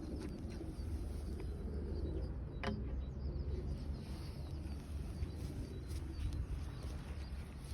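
Outdoor ambience: a steady low rumble with faint bird chirps, and a single sharp click about two and a half seconds in.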